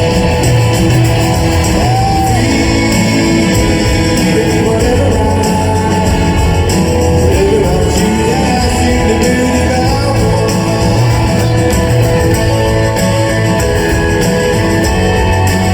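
Live rock band playing a song with guitars and singing, recorded from the audience in a concert hall.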